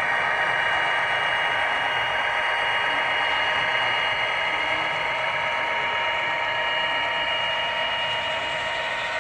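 Model train running on layout track: a steady whirr of a small electric motor and gearing with a thin, even whine.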